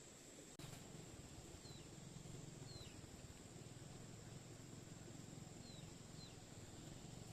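Faint outdoor ambience: about five short, falling high chirps from a bird over a steady thin high tone. A low hum comes in with a click about half a second in.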